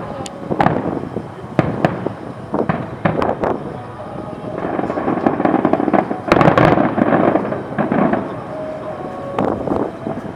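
Fireworks shells bursting in rapid succession in a starmine barrage, many sharp bangs with a dense stretch of crackling in the middle, loudest about six to seven seconds in.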